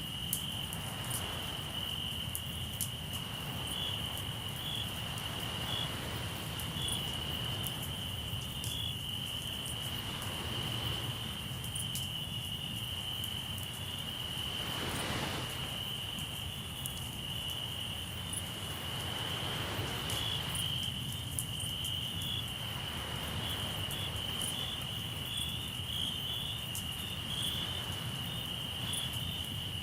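Crickets chirping steadily in one high, unbroken band, with scattered sharp crackles from a campfire. Waves washing on the shore swell and fade every few seconds.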